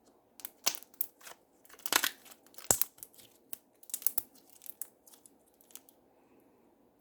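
Slime being squeezed and pressed by hand, giving an uneven run of sharp crackles and pops that bunch together and fade out after about six seconds.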